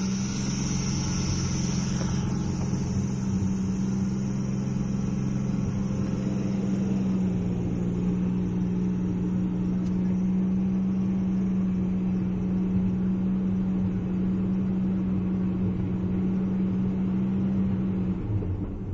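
1994 Ford Fairmont's engine idling steadily just after a cold start at about 4 degrees; the idle note drops a little near the end.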